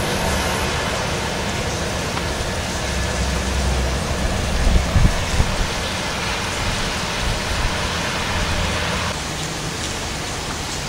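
Heavy thunderstorm rain falling steadily, a dense hiss, with a low rumble for a couple of seconds around the middle.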